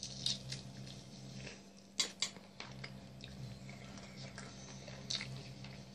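A man eating fried chicken close to the microphone: chewing with wet mouth smacks and sharp lip clicks, two loud smacks close together about two seconds in and another near the end, over a low steady hum.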